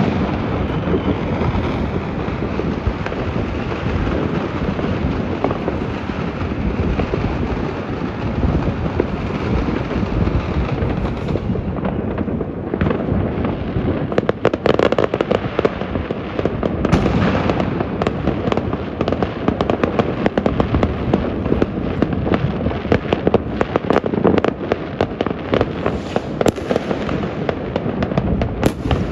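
Many fireworks going off across a city at New Year: a continuous din of overlapping bangs and crackles, with sharper separate cracks standing out in the second half.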